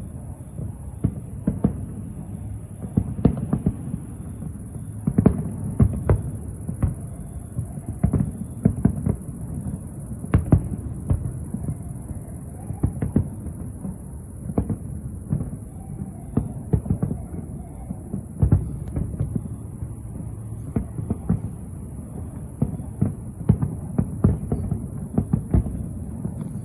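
Distant fireworks display: an irregular series of dull, low booms and thuds, at times several a second, over a continuous low rumble.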